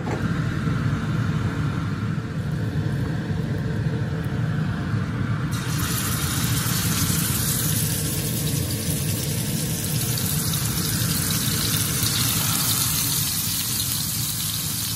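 Ground beef patties sizzling in hot olive oil in a frying pan: a steady hiss that comes in abruptly about five seconds in. A steady low hum runs underneath.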